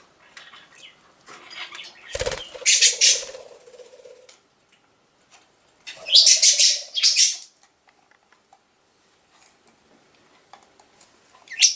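Pet budgerigars flapping their wings in two short bursts, about two seconds in and again about six seconds in, with a thump as the first burst starts.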